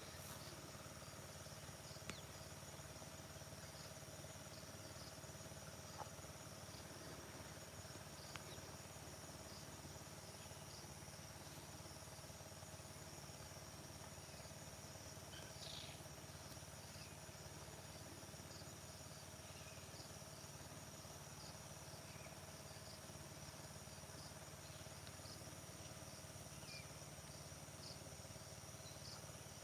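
Faint early-morning field ambience: insects, likely crickets, trilling steadily in a high pitch, with occasional faint bird chirps and a low steady hum underneath. A few soft clicks come around 2, 6 and 8 seconds in.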